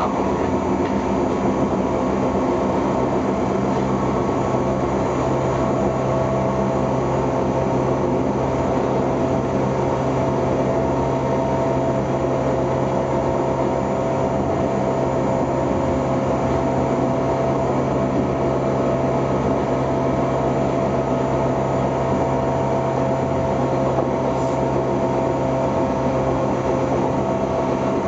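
169-series electric multiple unit running at a steady pace, heard from inside the driver's cab: a constant rumble of wheels on rail with a steady drone of hum tones.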